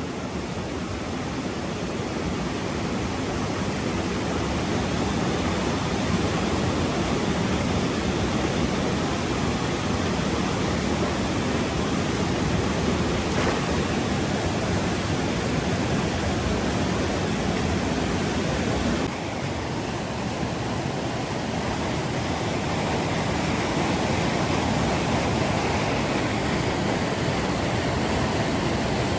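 Steady rushing of water, a dense even wash of noise. About two-thirds of the way through it dips suddenly, then builds back up.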